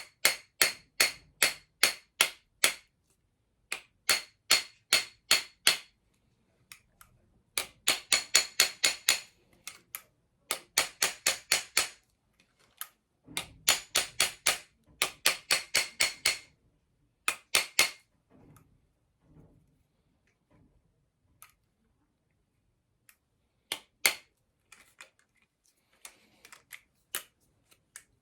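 Light hammer taps on a flute's metal body, working out a dent: quick runs of sharp, ringing strikes, about four a second, with pauses between the runs. In the last third there are only a few scattered taps.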